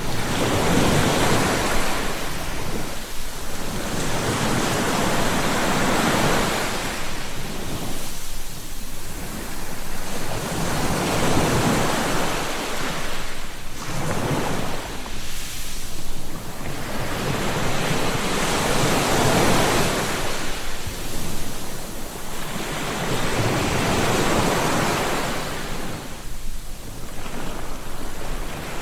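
Ocean waves breaking and washing up on the shore, a continuous roar of surf that swells and ebbs with each wave, about every three to five seconds.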